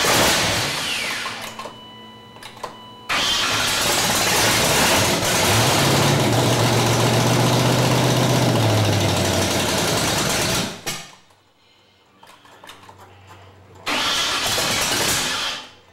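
Carbureted Ford 5.0 V8 being cranked on the starter in three bursts on its first start; in the longest one it catches and runs for a few seconds before dying. It starts reluctantly, and the owner says it needs a little more ignition timing.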